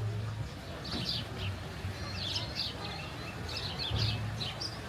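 Small birds chirping: many short, high chirps in quick clusters, over a low steady rumble.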